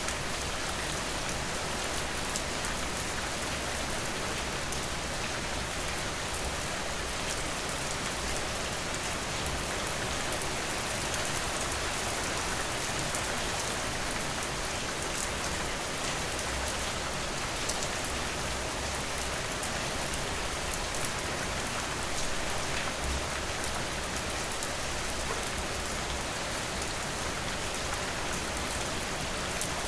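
Steady rain falling, an even hiss with scattered fine ticks of drops.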